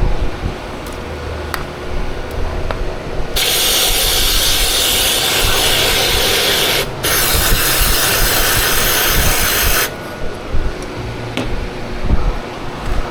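Aerosol can of brake cleaner spraying in two long bursts of about three seconds each, with a brief break between them, over a steady low hum.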